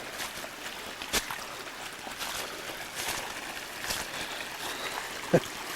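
Storm runoff pouring over a small waterfall, a steady rush of water, with a few sharp clicks over it.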